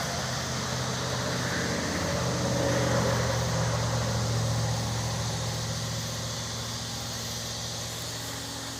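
A motor vehicle engine running steadily with a low hum, growing louder to a peak about three seconds in and then slowly fading.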